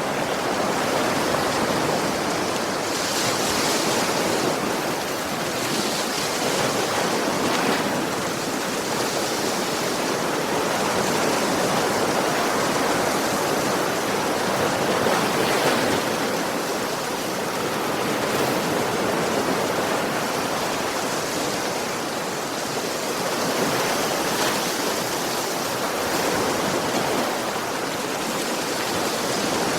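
Ocean waves breaking on a beach: a steady wash of surf that swells and eases every few seconds.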